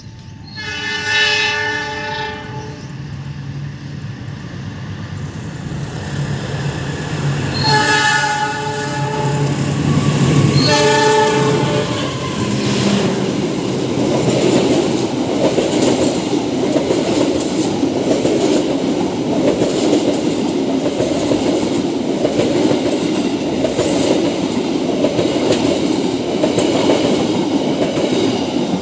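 Passenger train's locomotive horn sounds three times, two long blasts and a shorter one, over the low hum of the approaching locomotive. From about twelve seconds in, the carriages pass close by with a steady wheel-on-rail rumble and clickety-clack over the rail joints.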